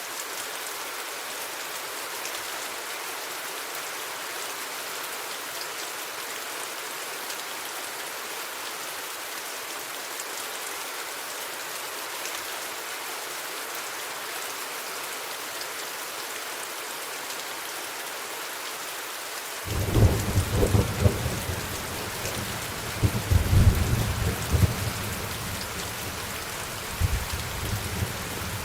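Steady rain hissing, then about two-thirds of the way through a thunder rumble breaks in suddenly and rolls on in several surges over the rain.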